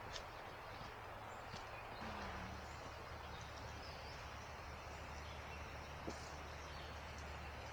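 Steady outdoor background hiss with a few faint, short bird chirps and an occasional light tick.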